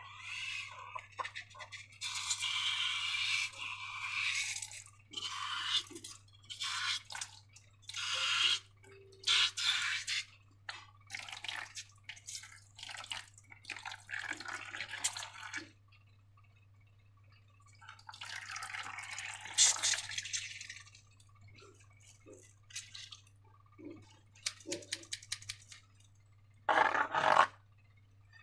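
Wet, sticky slime squelching and squishing in irregular bursts with short pauses, over a faint steady low hum.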